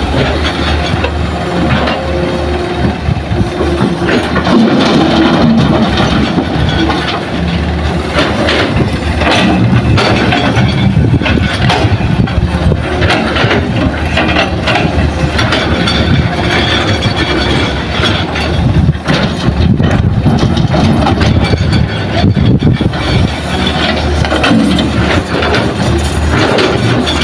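A Hitachi excavator's heavy diesel engine running under load while digging and loading, with a steady low hum and frequent knocks and clatter throughout.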